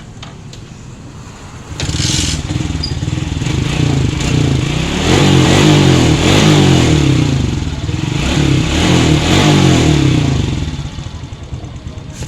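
Suzuki Raider 115 FI motorcycle's single-cylinder fuel-injected four-stroke engine idling, then revved up about two seconds in, rising and falling in pitch through two long surges before dropping back toward idle near the end: a sound check of the engine after a tune-up.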